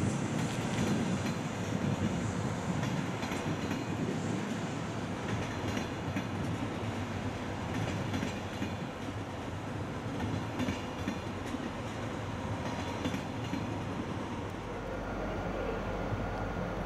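TGV Duplex double-deck high-speed train rolling slowly over station tracks and points: steady running noise with sharp wheel clicks over the rail joints. About three-quarters through the sound changes to a steadier running noise with a constant low hum.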